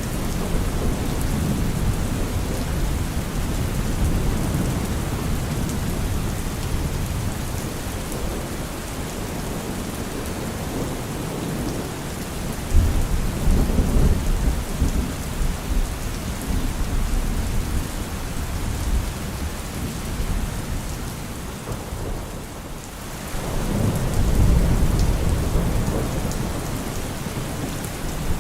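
Steady rain with rolling thunder. A low rumble of thunder sets in suddenly about halfway through, and after a brief lull another swells up a few seconds before the end.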